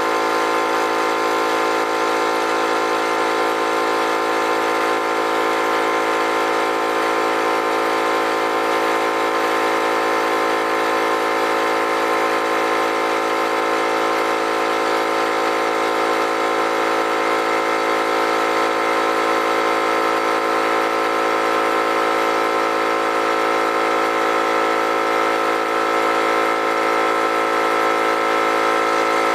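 Harbor Freight electric air compressor running steadily, its pump filling the tank with pressure still building toward the pressure switch's cut-out at about 105 psi.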